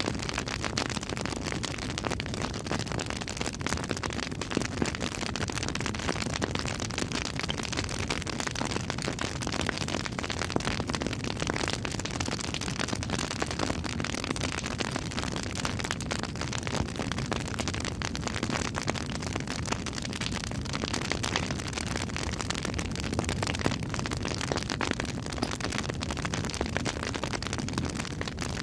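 Campfire burning, crackling steadily with frequent small sharp pops.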